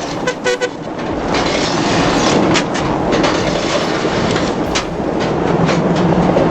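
Heavy diesel engines labouring hard as a Kirovets K-700 tractor works through snow to free a stuck truck, with irregular metallic clanks and knocks over the steady engine noise.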